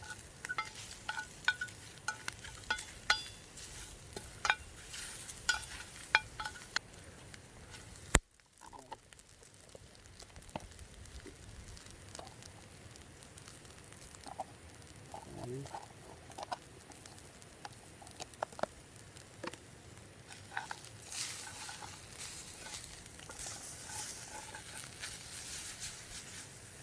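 Calabresa sausage and cherry tomatoes sizzling in a pan over a campfire. A utensil stirs and clinks against the metal pan, with many sharp clicks in the first eight seconds. After an abrupt break, quieter sizzling and occasional clinks go on, growing brighter near the end.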